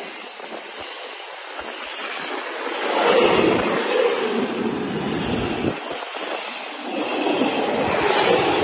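Container freight wagons rolling past at speed: a steady noisy rumble and rattle of wheels on the rails, swelling about three seconds in and again near the end.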